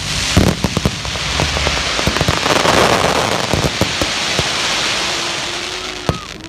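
Fireworks crackling and sizzling overhead: a dense, rain-like crackle that swells and then slowly fades, with a few bangs in the first couple of seconds.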